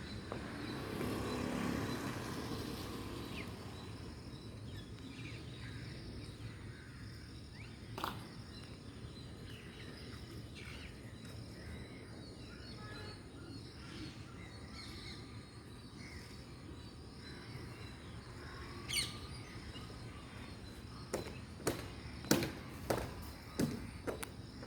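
Parrots giving short chirps now and then over a steady outdoor background hiss, with a single sharp click about a third of the way in and a quick run of sharp clicks near the end.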